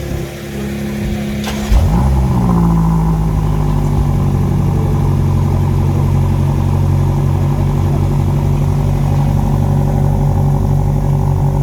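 BMW M5 CS's 4.4-litre twin-turbo V8 starting up: a brief crank, then it fires about two seconds in with a quick flare of revs and settles into a steady idle.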